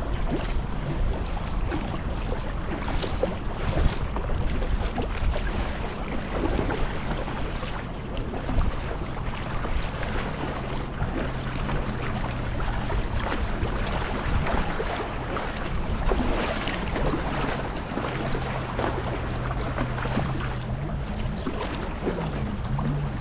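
Kayak paddling: the paddle blades splash and water washes along the hull, with wind buffeting the microphone. A low steady hum comes and goes in the second half.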